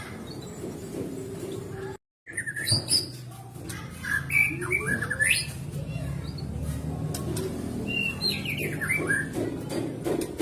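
White-rumped shama (murai batu) singing, in quick phrases of sweeping whistled notes. The sound cuts out briefly about two seconds in.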